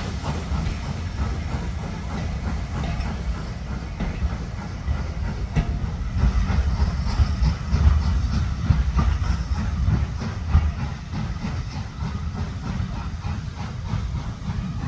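Heritage railway train running on the track: a steady low rumble with irregular wheel clatter.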